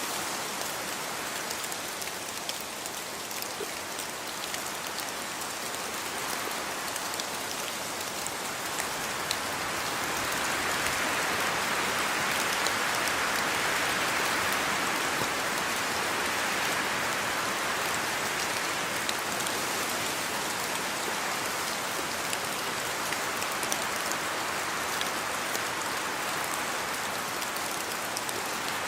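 Steady rainfall, an even hiss of drops with scattered individual drop ticks; the rain swells a little heavier about ten seconds in, then eases slightly.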